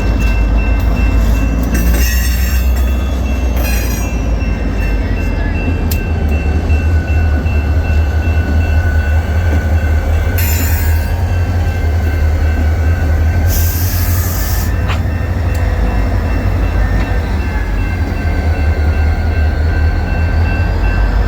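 Freight train rolling past at close range: a steady heavy rumble of wheels on rail, with thin wheel-squeal tones and several short high screeches from the wheels over the stretch.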